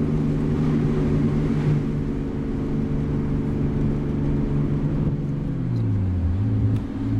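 Straight-piped RB20 straight-six of an R32 Skyline GTST, heard from inside the car, cruising at steady revs. About five and a half seconds in, the engine note falls and dips, then settles at a lower steady drone.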